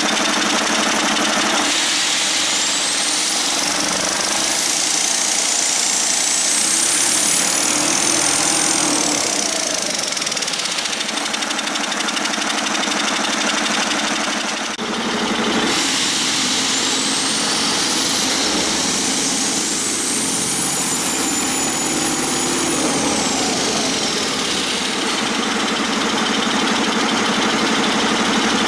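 Detroit Diesel Series 60 12.7 L inline-six diesel engine running, with a high whistle that rises, holds and falls back twice as the engine is taken up and let down.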